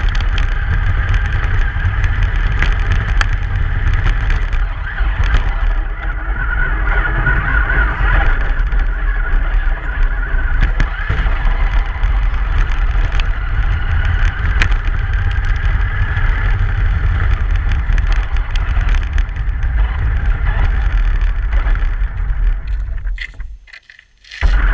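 Steady road noise of a moving truck: a loud low rumble with an even hiss over it. It cuts out suddenly for about a second near the end, then comes back.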